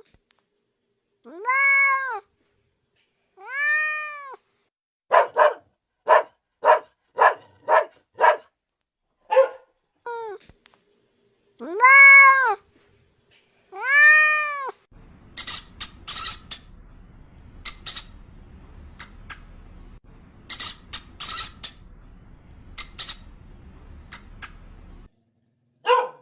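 Cat meowing: several drawn-out meows rising and falling in pitch, with a quick run of short mews between them. About halfway through, a stretch of brief, high, squeaky sounds over a faint background hiss follows.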